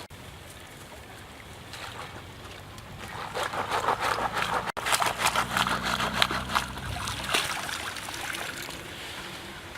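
Water sloshing and trickling with a rapid patter of small clicks, louder in the middle.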